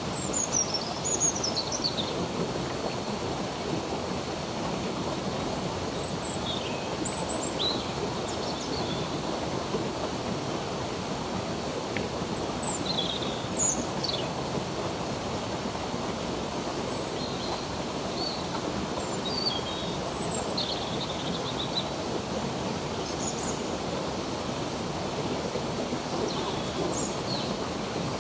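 Stream water flowing in a steady rush, with songbirds chirping over it in short high notes and trills throughout.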